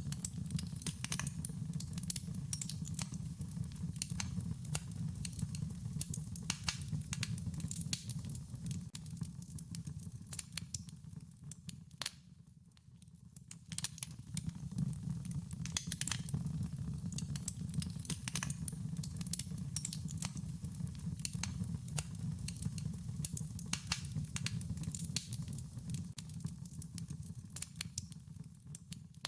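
Wood fire crackling: a steady low rumble of burning with frequent sharp pops and snaps. The fire quietens briefly about twelve seconds in, then picks up again.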